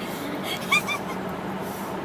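Steady car-cabin road and engine noise while driving, with two or three short high-pitched whimpers about half a second in.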